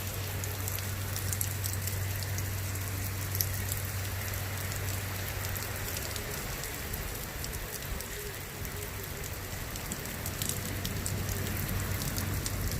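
Steady rain falling, with many small drop ticks on a hard surface, over a constant low hum.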